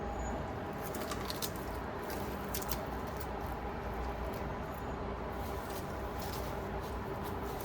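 Light, scattered scratches and clicks, like small tools or a stick handled against plastic, over a steady low hum.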